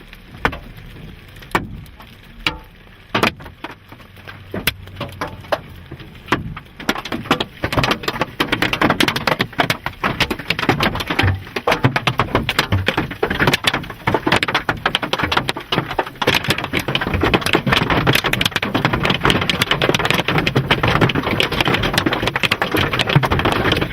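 Large hailstones hitting a vehicle's roof and body: a few separate hits at first, then from about seven seconds in a dense, continuous barrage of impacts.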